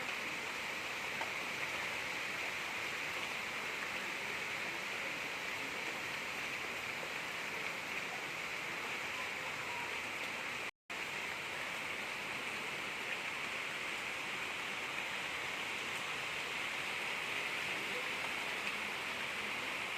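Gentle rain falling steadily, an even hiss strongest in the upper-middle range. It is broken by a split-second dropout to silence about eleven seconds in.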